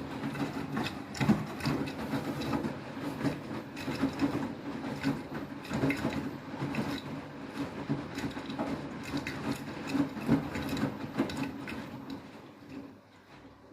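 Beko WTK104121W front-loading washing machine drum turning on the StainExpert prewash, a load of bedding tumbling in a high water level with irregular knocks and rubbing. The drum action dies away near the end.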